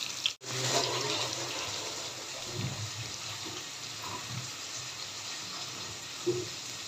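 Chopped garlic, cumin seeds and whole dried red chillies sizzling steadily in hot oil for a tadka, with a momentary dropout just after the start.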